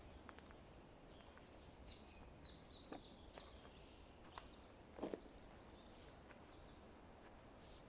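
Faint birdsong in a forest: a small songbird sings a fast trill of repeated, falling high notes lasting about two seconds. A few sharp clicks follow, the loudest a double crack about five seconds in.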